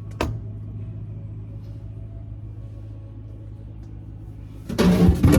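A steady low hum with a single click near the start; near the end a loud scraping clatter as a plastic refrigerator crisper drawer is pulled out.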